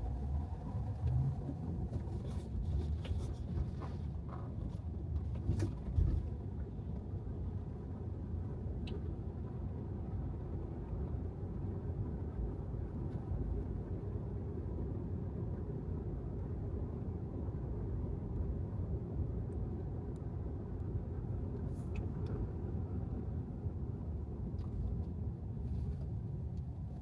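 Tesla Model 3 electric car driving: a steady low rumble of tyres on the road, with a few short knocks in the first six seconds, the loudest about six seconds in.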